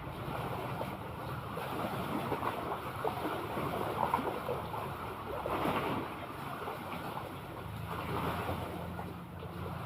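Sea water splashing and lapping in an irregular wash, with a steady low motor hum underneath that grows stronger near the end.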